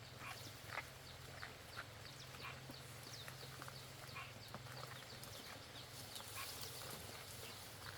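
Faint scattered short, high animal calls, each a quick falling chirp, coming irregularly over a low steady hum.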